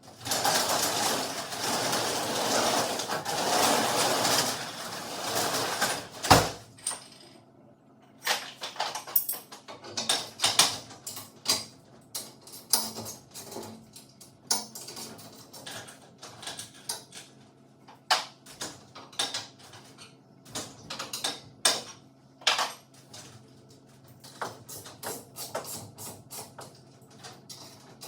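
A garage door running for about six seconds and stopping with a sharp bang, followed by scattered metallic clicks and knocks.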